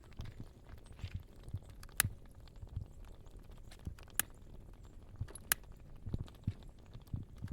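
Gas bubbles rising through a rainwater puddle in a lawn, crackling faintly with scattered sharp pops "like pop rocks", three of them louder than the rest. Where the gas comes from is unknown; the family wonders whether it is air trapped in a crawdad hole.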